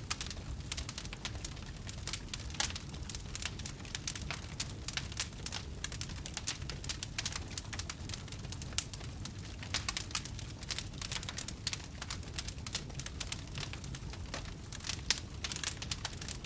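Wood campfire crackling, with frequent sharp irregular pops and snaps over a steady low rumble of the burning fire.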